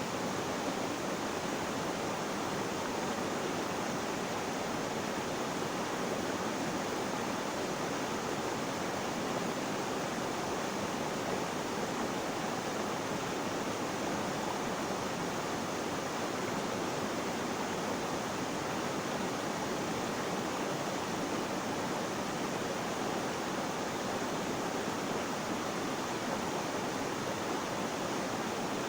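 Flowing water rushing steadily, an even hiss with no separate splashes or changes.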